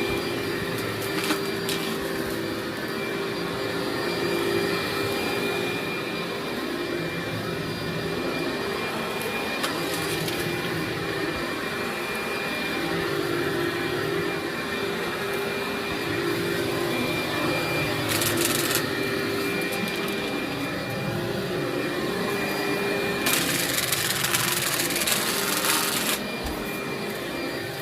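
Vacuum cleaner running over a heavily soiled carpet, a steady motor hum with crunchy, gritty pickup of dirt. The hiss swells briefly about two-thirds in and again for a few seconds near the end.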